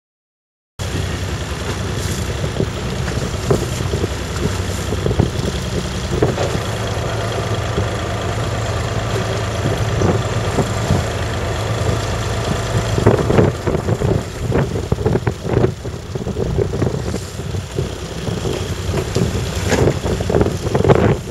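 Fishing boat's engine idling steadily under strong wind buffeting the microphone. From about halfway on, uneven gusts and thumps of wind and water grow louder over the engine hum.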